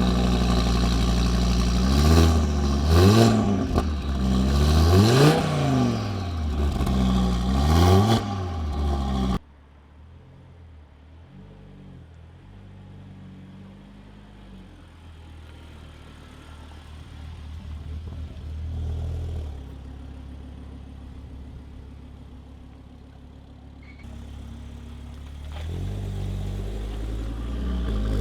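Audi RS3's 2.5-litre turbocharged five-cylinder engine running just after a start, blipped up and back down several times. It cuts off suddenly after about nine seconds, after which the engine is heard more quietly, its pitch stepping up and down, and it grows louder again near the end.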